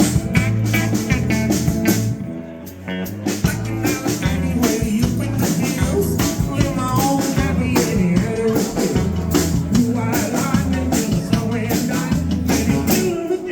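Live band playing an uptempo rock-and-roll number on drum kit, bass and guitar, with singing; the band drops back briefly about two seconds in.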